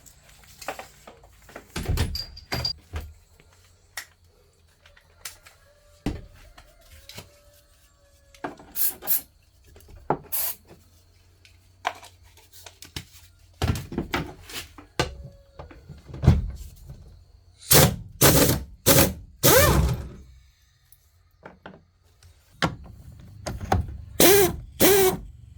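Tools and metal car parts being handled during repair work: irregular knocks, clunks and scrapes, with louder clusters of clunks a little after halfway and again near the end.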